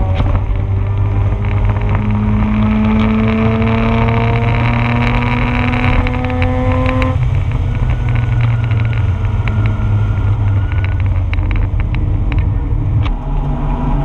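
The Mazda RX-8's Renesis rotary engine, heard from inside the car, pulls hard with a steadily rising pitch for about seven seconds, then eases off. A GoPro mount rattles and clicks throughout.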